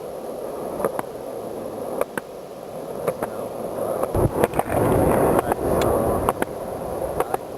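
Skateboard wheels rolling on pavement, with a click about once a second as they cross sidewalk joints. A louder, rougher stretch of rolling comes in the middle.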